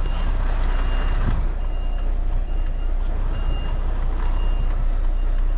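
Articulated lorry's reversing alarm beeping, one short beep about every 0.8 seconds, over the steady low rumble of the truck's diesel engine as it reverses slowly.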